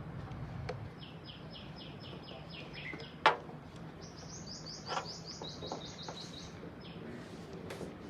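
A small bird sings two fast trills of short falling chirps, the second higher-pitched than the first. A sharp click about three seconds in is the loudest sound, with a softer knock near five seconds.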